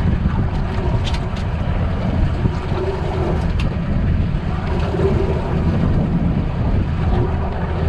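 Steady low rumble of a fishing boat's engine running, with wind on the microphone.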